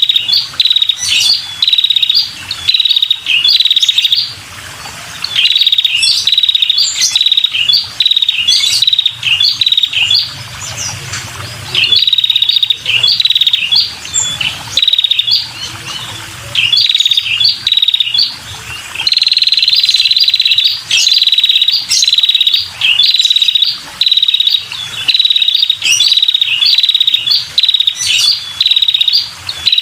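Female red-headed prenjak calling: loud, rapid buzzy chattering phrases, about one a second, with a longer unbroken run about two-thirds of the way in. This is the female's call used to lure male prenjak.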